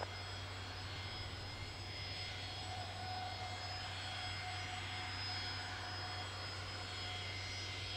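Steady, even noise of a distant jet airliner's engines, with a constant low hum underneath.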